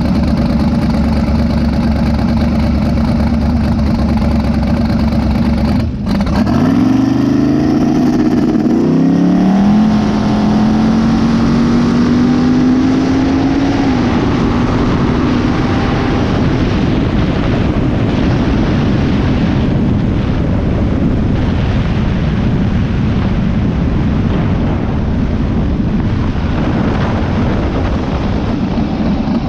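Twin-turbo Mazda B2000 pickup engine running steadily at low revs, then accelerating hard about six seconds in, its pitch climbing. It drops back with an upshift near nine seconds and climbs again until about fourteen seconds. After that the engine note fades into a steady rushing noise.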